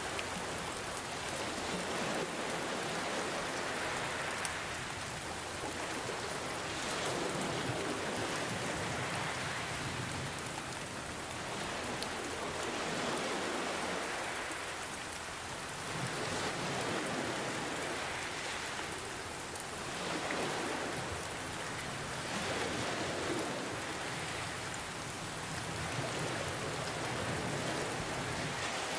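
Steady rain hiss mixed with gentle ocean waves, which swell and wash in about every three seconds.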